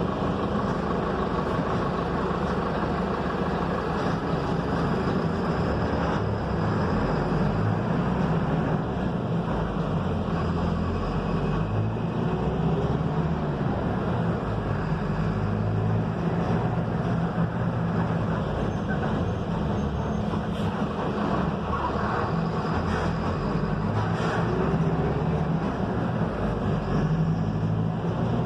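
Mercedes-Benz OF-1721 bus running steadily on the road, a continuous engine hum mixed with road and tyre noise, with a few faint rattles.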